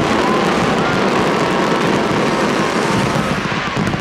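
A dense, continuous barrage of fireworks exploding and crackling, loud and unbroken.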